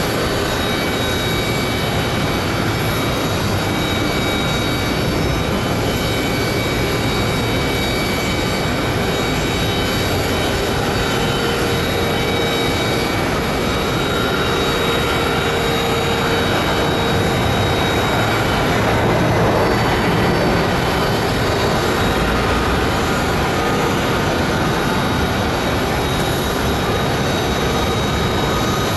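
Embraer 175 regional jet at idle: a steady loud turbine rush with several high whining tones, swelling a little about two-thirds of the way through.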